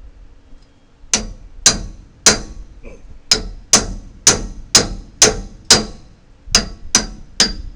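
Hammer blows on a log clamp, driving it to bite into the log: about a dozen sharp, ringing strikes at roughly two a second, starting about a second in, with two short pauses.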